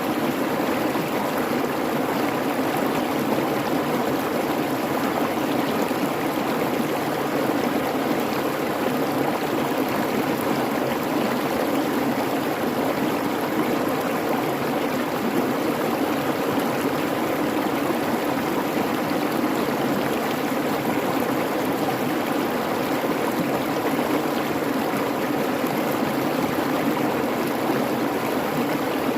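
Creek water babbling and rushing over stones, a steady, even flow.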